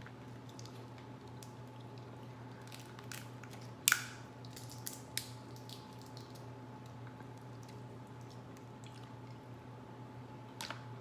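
Boiled seafood shells being cracked and pulled apart by hand: scattered small cracks and wet squishy snaps, with one sharper crack about four seconds in, over a steady low hum.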